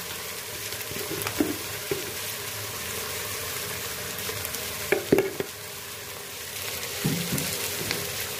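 Sliced onions and green chillies frying in hot oil in an aluminium pot, a steady sizzle with mix masala just added on top. A few short knocks of the spoon against the pot, the loudest about five seconds in.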